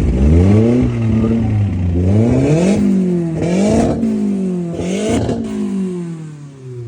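Car engine revved hard again and again, about four times, with harsh noise at the top of each rev, then falling back toward idle near the end. It is an engine said to have a rod knock, being revved to make the knock stop.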